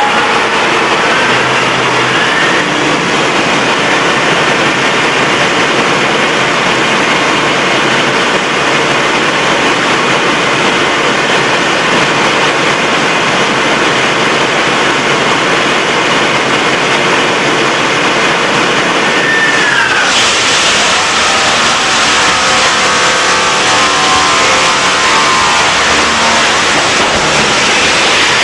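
Diesel engine running hard on a dynamometer. About twenty seconds in, the sound turns suddenly harsher and hissier and its pitch falls as the engine runs down after throwing a connecting rod.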